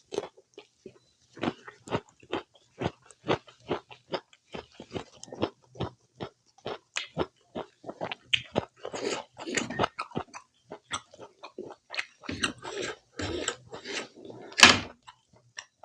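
Close-miked eating sounds from a person chewing spicy pork curry with rice: a quick, irregular run of wet chews and lip smacks, with one louder smack near the end.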